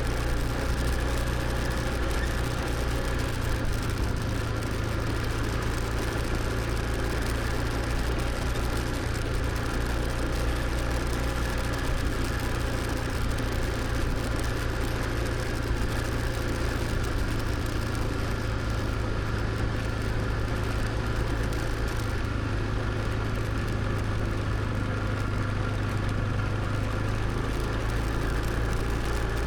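Motor scooter engine running steadily while riding, a constant low hum over an even rush of road and wind noise.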